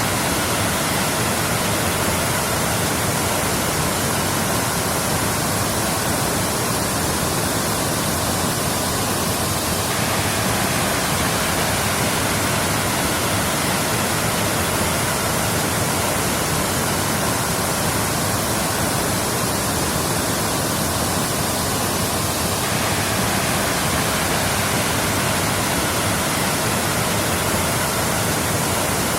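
Waterfall, water falling and rushing in a steady, even roar with no breaks.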